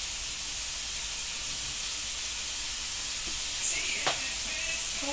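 Food frying in a pan, sizzling steadily, with a light click about four seconds in.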